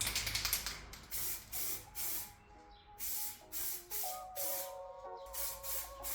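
Paint being sprayed in a quick series of short hissing bursts, about ten in all, each lasting a fraction of a second with brief pauses between them. Faint background music joins about two seconds in.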